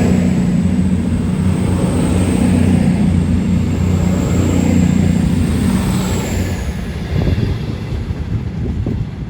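Train running through the station: a loud, steady engine drone with a faint high whine, dying away from about six seconds in as it moves off.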